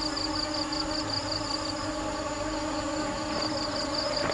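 A swarm of bees buzzing: a dense, steady hum. A high, fast-pulsing chirp, about five pulses a second, runs over it.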